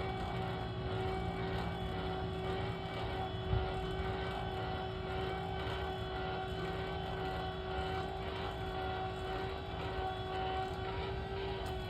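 A motor vehicle running steadily, a low drone with a constant whining tone over it, and a single thump about three and a half seconds in.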